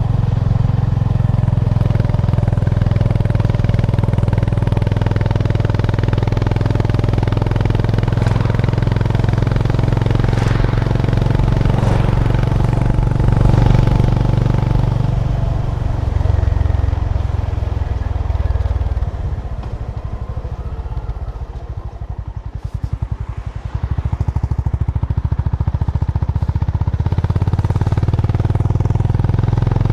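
Honda GB350's air-cooled single-cylinder engine running steadily under way. About two-thirds of the way through it eases off for a few seconds, its separate firing pulses showing, then pulls again.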